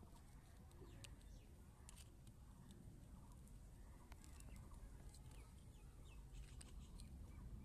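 Near silence: faint bird calls in the background, short chirps scattered throughout, with a few faint clicks.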